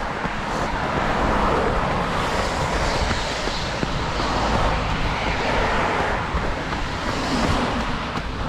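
Steady rushing noise on a runner's body-worn camera microphone as it moves through pouring rain.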